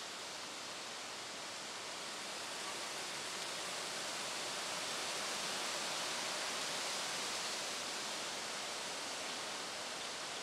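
Steady rushing outdoor noise that swells a little in the middle and eases off again; no birdsong stands out.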